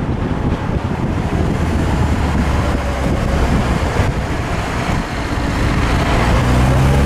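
Porsche 944S's four-cylinder engine running under way, with tyre and road noise and wind buffeting on the microphone. Near the end the engine note rises steadily as the car accelerates.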